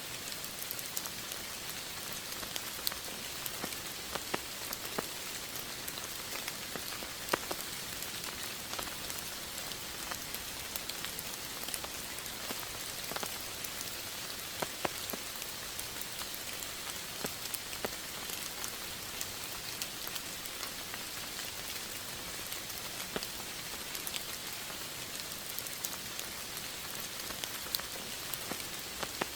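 Steady rain falling: a dense, even hiss with many scattered, sharper individual drop hits.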